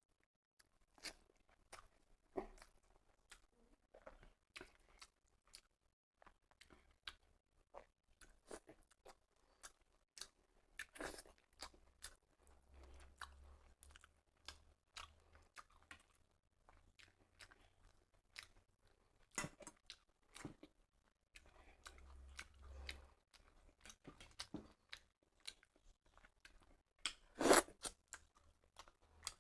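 A person chewing a meal of rice, dal and dry fish curry, with many short crunches and mouth clicks; the loudest crunch comes near the end.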